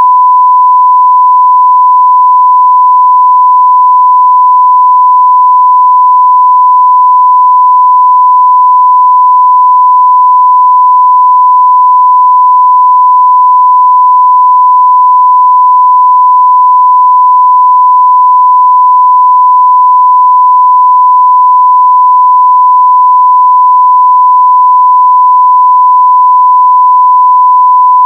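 A continuous 1 kHz sine test tone at full level, one pure pitch held perfectly steady.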